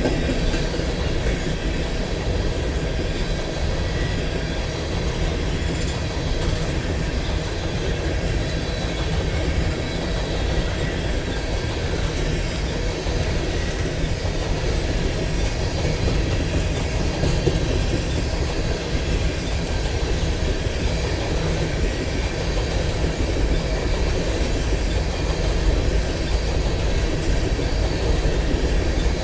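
Railroad cars of a long train rolling past, with a steady rumble and wheel clatter on the rails.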